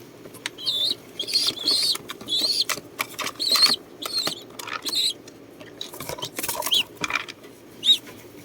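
Young pigeons (squabs) giving a string of short, high-pitched squeaks that bend up and down in pitch, with brief rustling between them.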